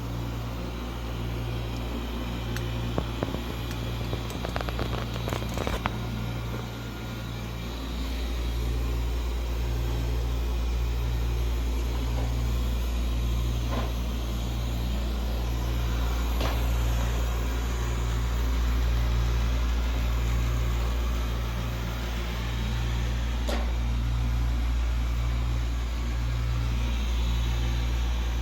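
Xiaomi Mijia Mop P robot vacuum running, a steady motor and fan hum with a strong low drone. There is a quick run of clicks and ticks a few seconds in, and the hum gets louder about eight seconds in.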